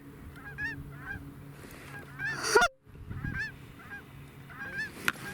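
Canada geese honking and clucking, many short calls overlapping as a flock comes in low over the decoys. About two and a half seconds in there is a louder burst, and the sound drops out for a moment before the honking resumes.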